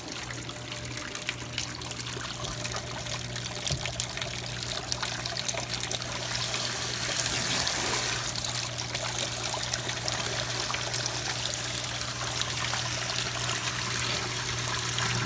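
Drain water from a top-load Whirlpool impeller washing machine pouring out of its drain hose into a utility sink and swirling down the drain, over a steady low hum from the washer. The pouring grows a little louder about halfway through.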